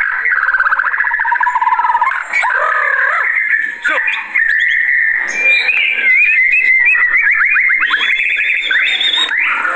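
White-rumped shama singing loudly and without pause: rapid runs of repeated notes, whistled slides and fast trills, the heated, aggressive song of a fired-up bird.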